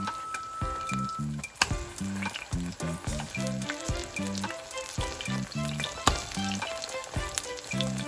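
Saltfish fritters frying in hot oil: a steady sizzle with frequent small pops and crackles, over background music with a steady beat.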